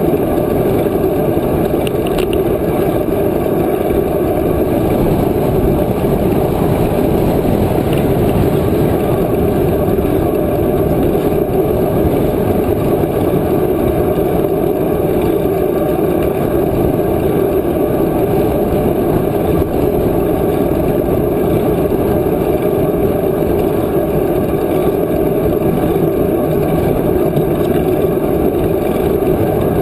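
Wind rushing over the microphone of a moving bicycle, a steady low rumbling noise that covers everything else.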